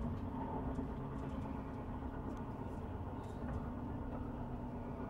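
Moving passenger train heard from inside the carriage: a steady low rumble of the wheels on the track, with a faint steady hum over it.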